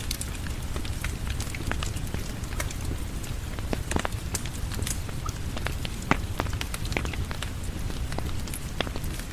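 Steady rain falling, with a wood fire crackling: irregular sharp pops and snaps scattered over the low, even rush of the rain.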